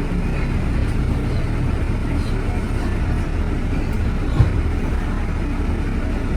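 Steady low rumble of city street traffic, with a single sharp knock about four seconds in.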